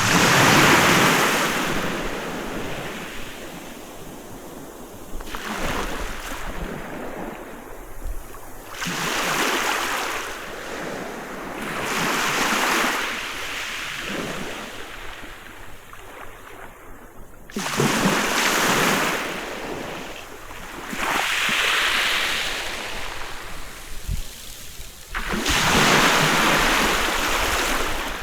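Sea waves breaking on a beach: surf washes in with a rushing hiss and fades, about seven times, every three to four seconds.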